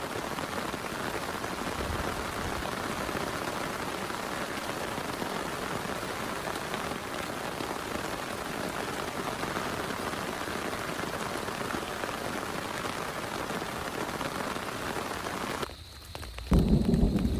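Steady heavy rain falling. Near the end the rain sound cuts off abruptly and a loud, low rumble of thunder starts.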